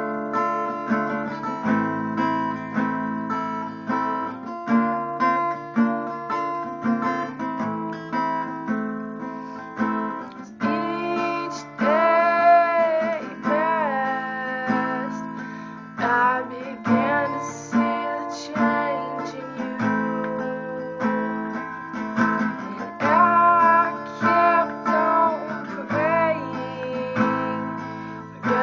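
Acoustic guitar strummed in a steady rhythm, with a woman singing over it in several stretches.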